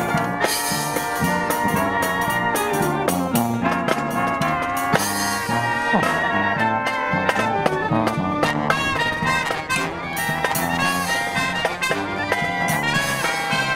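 Brass marching band playing a tune: trumpets and trombones carry the melody over a steady drum beat.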